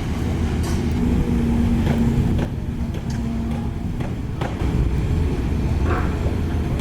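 Diesel engine of heavy construction machinery running steadily, with a few short knocks.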